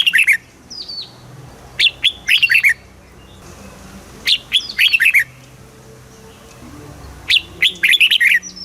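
Red-whiskered bulbul singing: four short phrases of quick, bright whistled notes, each phrase under a second, repeated about every two and a half seconds.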